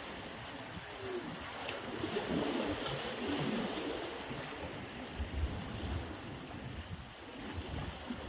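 Sea surf washing on the beach, with wind buffeting the microphone.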